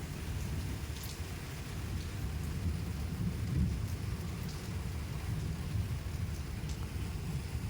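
Rain falling, with scattered sharp ticks of drops striking and a steady low rumble underneath.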